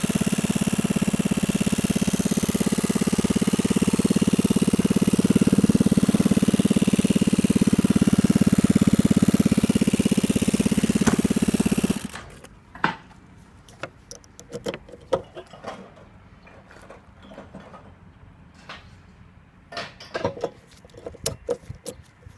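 Yamaha Jog ZR scooter's small single-cylinder engine idling steadily, then switched off about halfway through, stopping abruptly. Light clicks and rattles follow.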